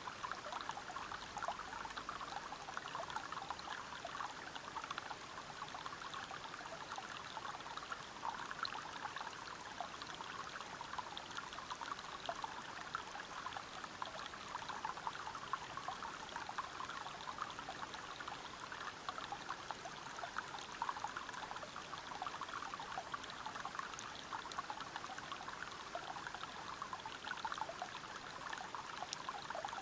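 Waterfall and river water splashing over rocks: a steady, even rush full of small splashes that does not change.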